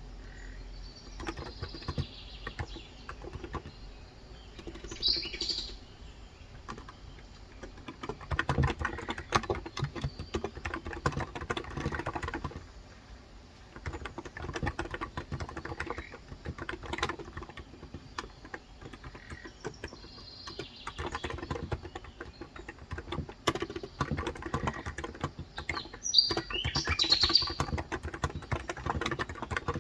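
Typing in quick runs on a COX Endeavour electro-capacitive (Topre-style) keyboard with 35 g switches, dense key clicks starting and stopping in bursts. Birds chirp from outside, once in the first few seconds and again in the second half.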